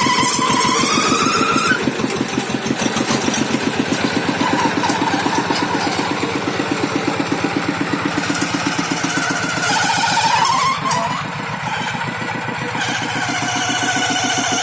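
Farm tractor's diesel engine running under way with a steady, rapid pulse.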